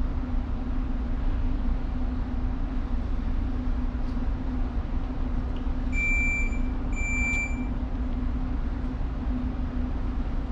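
Steady low hum of a tanker's engine and machinery, with two short high electronic beeps about six and seven seconds in.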